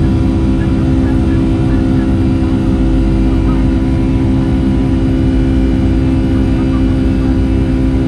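Boeing 757-300 cabin noise near the wing: the jet engines run at steady power, giving a constant low rumble with a steady multi-tone hum over it.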